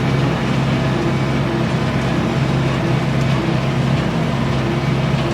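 A vehicle engine running steadily, a low, unchanging hum.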